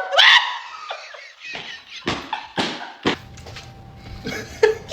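A person making short, silly voice noises: a rising squeal right at the start, a few brief scattered sounds, and another short vocal sound near the end.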